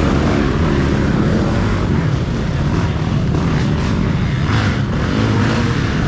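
Off-road racing dirt bike engines running and revving, the pitch wavering up and down.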